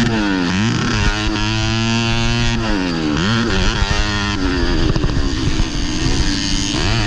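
Modified underbone (bebek) motorcycle engine racing under the rider, at high revs. The revs drop sharply and climb again about half a second in, around three seconds in and near the end, as the throttle is rolled off and back on.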